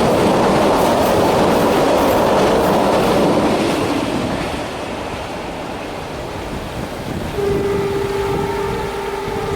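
Freight train rolling past, its wheels running loud on the rails, the rumble dying down after about five seconds. About seven and a half seconds in, a long, steady horn blast starts and holds.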